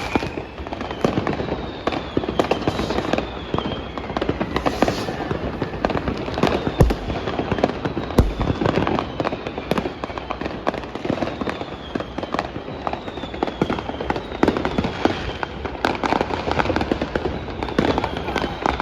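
Dense New Year's fireworks: a nonstop barrage of firecracker bangs and crackles, with several high whistles falling in pitch from whistling rockets.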